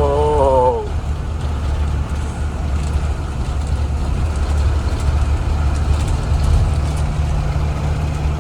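Blue Bird Vision school bus running, heard from inside the passenger cabin: a steady low engine and road drone with no change in pitch.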